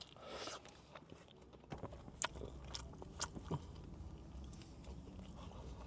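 Chewing a Nashville hot fried chicken slider, with soft mouth noises and a handful of sharp mouth clicks between about two and three and a half seconds in.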